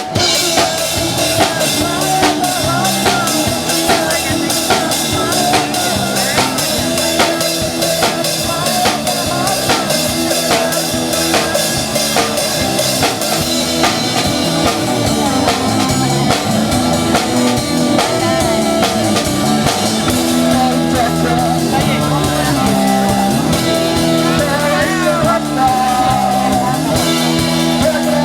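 Band playing rock music: a drum kit keeps a steady beat under bass and electric guitar.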